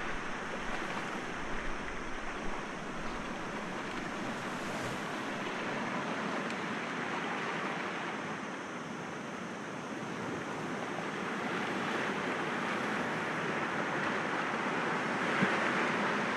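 Sea waves breaking gently against rocks, a continuous wash of surf that swells and eases, rising toward the end.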